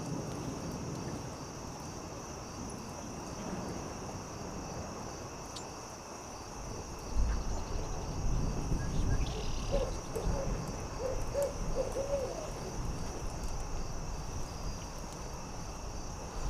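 Night forest ambience: crickets chirring steadily while a campfire gives faint scattered crackles. A low rumble swells about seven seconds in, and a few seconds later an owl gives a quick series of short hoots.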